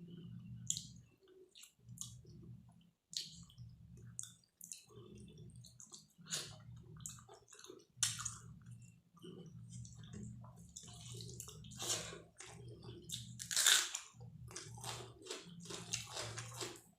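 Close-miked eating of dal and rice: wet chewing, lip smacks and squishy mouth sounds at an irregular pace, with a louder smack near the end.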